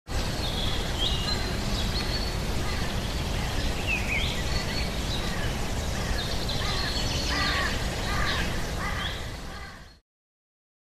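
Birds calling over a steady background noise, with many short chirps scattered through; it all fades out about a second before the end and then stops.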